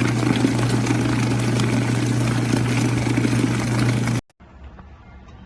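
Mini portable washing machine running: a steady motor hum with churning noise, which cuts off suddenly about four seconds in, leaving something much quieter.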